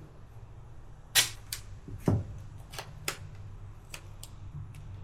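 A run of sharp clicks and knocks, about eight in all, the loudest a little after one second and about two seconds in, from hands working duct tape over the openings of a motorcycle fuel tank. A steady low hum runs underneath.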